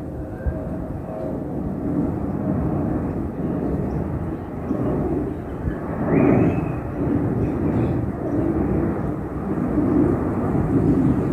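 Jet engines of a Boeing 717 airliner climbing out after takeoff: a loud, steady rumble that swells about six seconds in.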